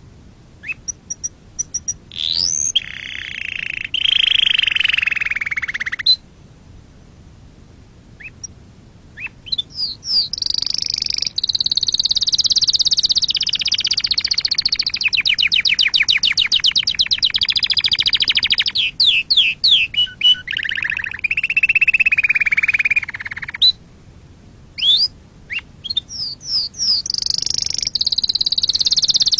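Domestic canary singing: long phrases of rapid trills and quick rising and falling notes, including a fast buzzy rattle in the middle, broken by short pauses.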